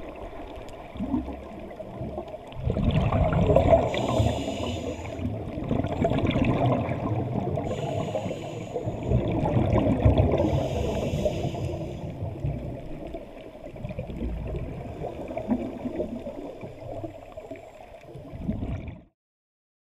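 Scuba diver's breathing through a regulator underwater: swelling, bubbling rumbles of exhaled air, with short hissing inhalations between them. The sound cuts off suddenly near the end.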